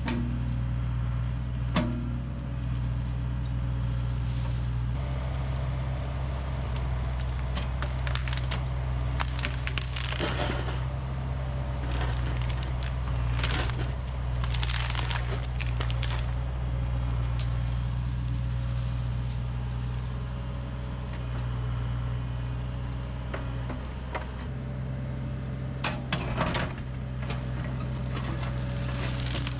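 A diesel heavy-equipment engine running steadily, with logs and firewood clattering and cracking as they are handled, in loud bursts about ten seconds in, around fourteen seconds in, and near the end.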